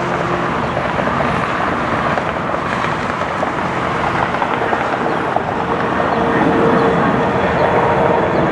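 Jet airliner engines running with a steady, loud rushing noise that grows slightly louder, with a steady hum coming in about five seconds in.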